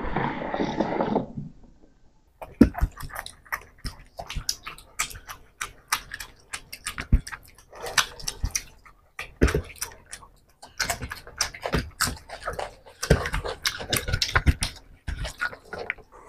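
Close-miked wet chewing and lip-smacking of people eating fish curry and rice by hand, a quick irregular run of short smacks and squelches, with the squish of fingers mixing rice and curry.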